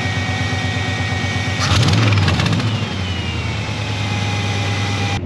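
Carbureted engine of a 1989 Chevy C/K 1500 pickup idling steadily, with a thin high whistle over it. About two seconds in there is a louder, rough burst lasting under a second, and then the idle goes on with a faint whistle sliding slowly down in pitch.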